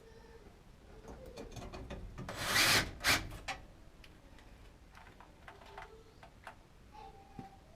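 Hand tools on sheet metal: a socket ratchet driving the new draft inducer blower's mounting screws, scattered clicks with one loud rasping stretch between about two and three seconds in, then a sharp click.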